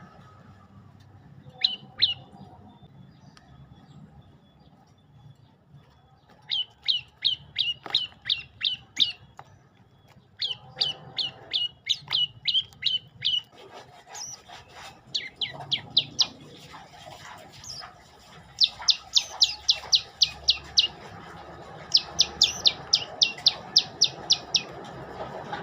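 Prenjak lumut songbird singing: fast trills of sharp, high, repeated notes, about five or six a second, in phrases of two to three seconds, starting about six seconds in and repeating several times, with a couple of single notes early on.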